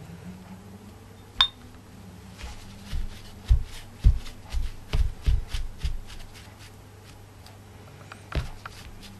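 A sharp clink with a brief ring, then a run of soft knocks and taps, about two a second for a few seconds, and one more knock near the end: objects being handled on a work surface.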